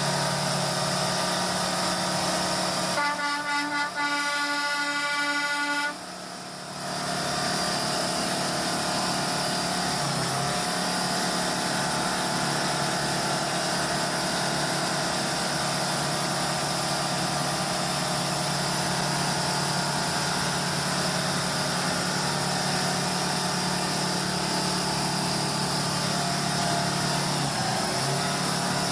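Heavy truck engine running steadily. About three seconds in, a horn sounds in a quick series of short toots, roughly two or three a second, lasting about three seconds before the engine sound returns.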